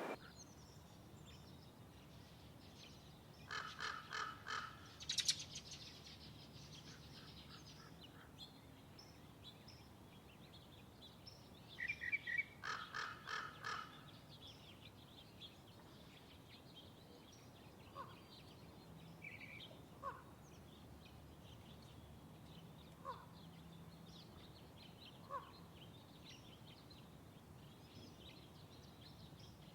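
Wild birds calling outdoors: two runs of loud, harsh calls repeated several times in quick succession, then single short chirps every few seconds over a faint steady background hiss.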